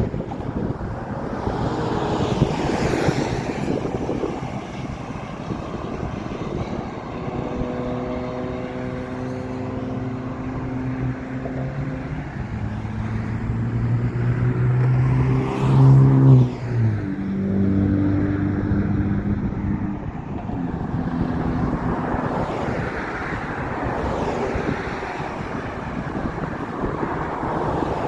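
A motor vehicle passing: its engine hum builds, is loudest a little past halfway, then drops in pitch as it goes by, over steady rushing background noise.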